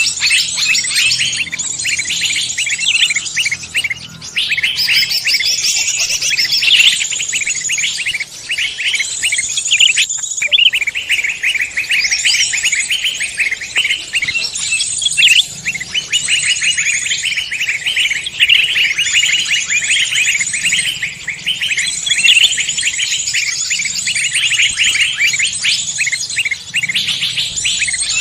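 Dense chorus of many songbirds chirping and trilling at once, rapid overlapping calls without a break.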